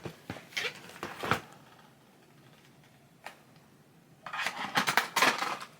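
Items being handled: a few small clicks and knocks, a single click about three seconds in, then a second and a half of clattering and rustling near the end.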